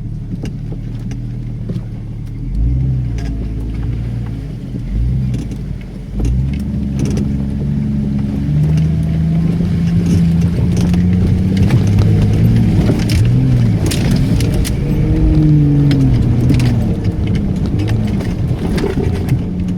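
Off-road vehicle's engine revving hard under load on a muddy climb, its pitch rising and falling again and again as the tyres struggle for grip. Scattered sharp clicks and knocks sound over it.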